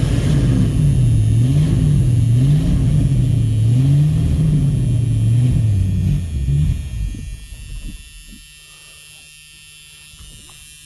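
1979 Ford Thunderbird's V8 engine running unevenly, its speed surging up and down every second or so, then dying away about seven seconds in, leaving a faint hum. The engine is starved of fuel, which the owner puts down to a bad fuel sending unit.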